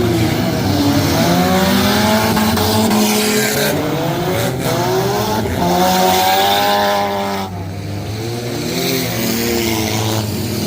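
Several junk cars racing, their engines revving, the pitch rising and falling as they speed up, slow and pass. The sound dips briefly about seven and a half seconds in.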